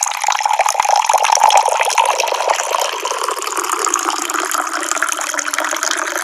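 Tap water pouring in a steady stream, a full splashing hiss that is a little stronger in the first couple of seconds.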